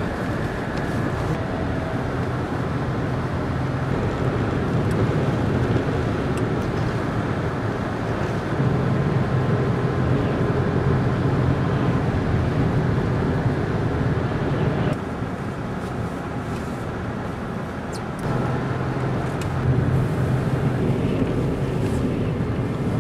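Engine and road noise heard from inside the cabin of a 2000 Subaru Outback driving on snow, steady with a low engine hum. It gets louder about eight and a half seconds in, falls back at about fifteen seconds and rises again near eighteen seconds.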